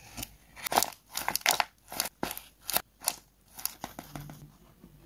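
Tape-covered paper being handled and crinkled close to the microphone: a quick, irregular run of sharp crackles that dies away near the end.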